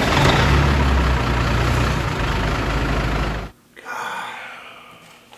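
A semi-truck's diesel engine just after starting, running loud with a deep drone. It cuts off abruptly about three and a half seconds in.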